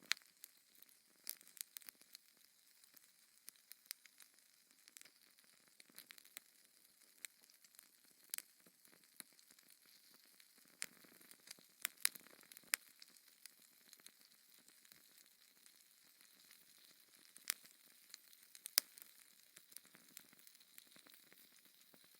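Fire in a fireplace crackling, faint overall: irregular sharp pops and snaps over a soft steady hiss.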